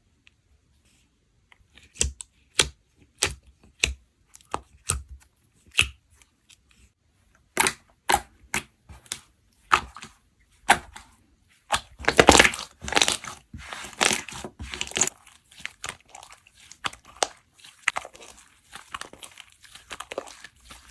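A run of sharp, separate snaps and cracks starting about two seconds in, thickening into dense crackling and crunching about twelve seconds in, then lighter crinkling toward the end: something crisp being crushed, snapped or torn up close.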